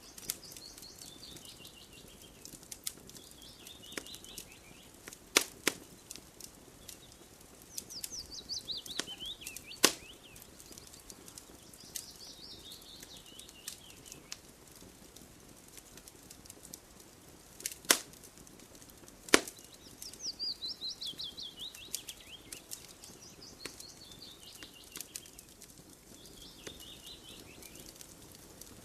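Wood fire crackling, with many small ticks and a few sharp, loud pops, while a songbird repeats a short song of quick notes that fall steadily in pitch, every few seconds.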